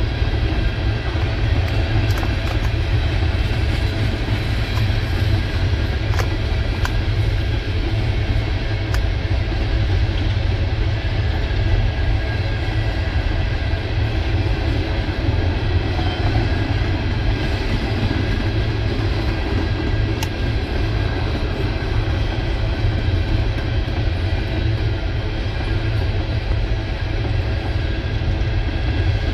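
Empty coal hopper cars of a CSX freight train rolling past: a steady rumble of steel wheels on rail, with a few sharp clicks.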